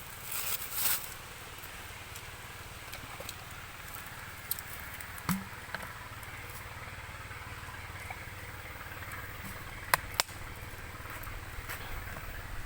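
Steady rain falling in the forest, with scattered light clicks and two sharp knocks about ten seconds in.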